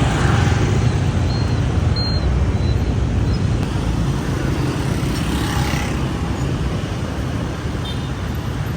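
Street traffic heard from a moving motorbike: a steady low rumble of engines and road noise, with no single standout event.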